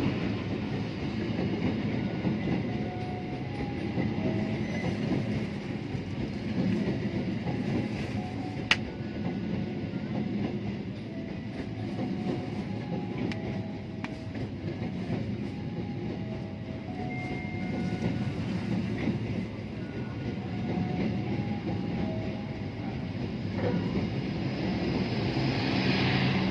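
Passenger train running past on the rails: continuous wheel-and-track noise that swells again near the end, with one sharp click about nine seconds in.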